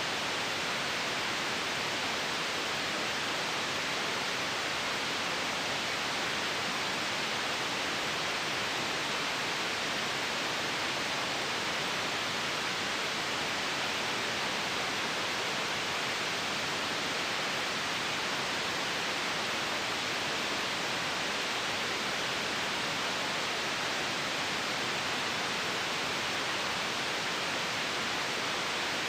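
Steady white noise: an even, unchanging hiss with no breaks or changes, weighted toward the upper-middle range.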